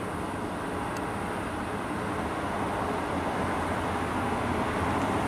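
Train running on the line: a steady rumble of wheels on rails that grows a little louder in the second half.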